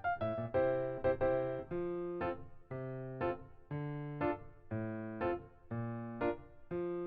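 Background music: a piano or electric piano playing light chords in a steady rhythm.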